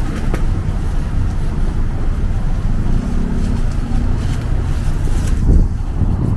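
Steady low rumble of outdoor city street noise, with passing traffic and wind on the microphone.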